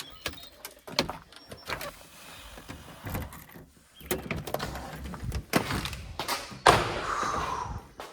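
A door being opened: a series of clicks and knocks from its latch and frame, with a loud bang about two-thirds of the way through followed by a second or so of scraping and rattling.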